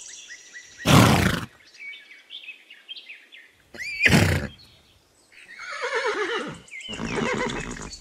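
Horse neighing: loud calls about three seconds apart, one a long whinny that falls in pitch, with faint bird chirps between them.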